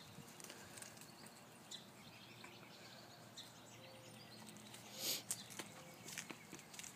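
Faint rustling and light scratching of puppies scampering and digging in dirt and dry leaves, with a brief louder rustle about five seconds in.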